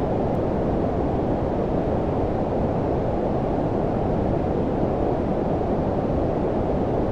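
Steady low-frequency noise with a deep, rumbling hiss: white noise filtered toward the bass, close to brown noise, with most of its energy below about 1 kHz. It holds an even level throughout, with no changes or events.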